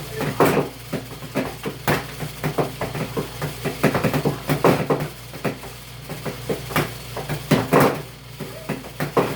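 Portable washing machine running: a steady low motor hum under irregular knocking and clattering, several knocks a second.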